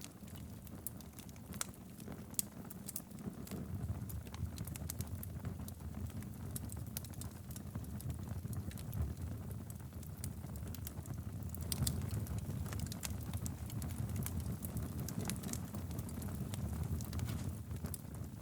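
Wood fire burning in a fireplace: a steady low rumble of flames with frequent sharp crackles and pops from the burning logs at irregular intervals.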